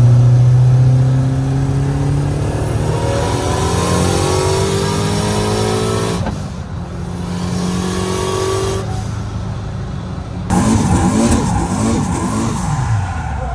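Car engine accelerating hard, its pitch climbing through the revs several times with abrupt cuts between shots; in the last few seconds the revs swing up and down unevenly. The exhaust manifold is leaking, which the driver takes for a cracked manifold.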